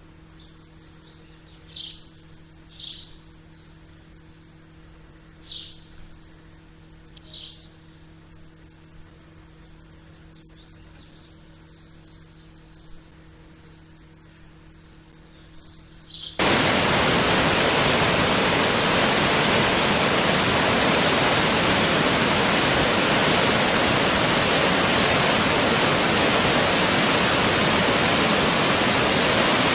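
A few short, high bird chirps over a faint steady hum. About halfway through, the sound cuts abruptly to a loud, steady rushing noise.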